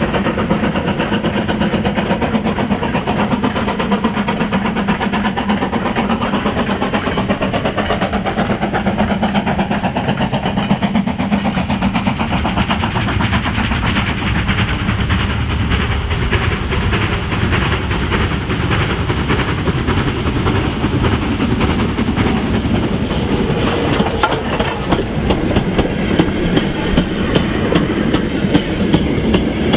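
Steam-hauled freight train running by: a steady rumble from the locomotive and its goods wagons. Near the end the wagons roll close past, their wheels clacking over the rail joints in a regular rhythm.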